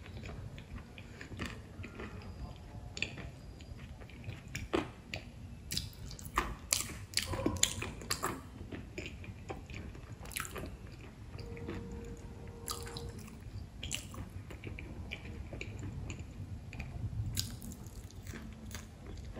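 Close-up eating sounds of crisp, wet puris being bitten and chewed with the mouth full: crackly crunches and moist smacking, with a cluster of louder crunches about six to eight seconds in.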